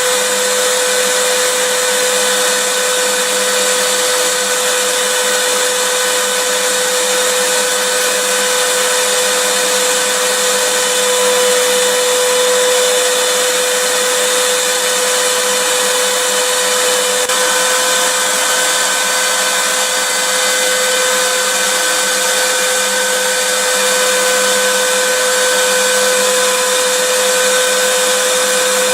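Vacuum cleaner running steadily: a continuous rushing hiss with a steady whine over it.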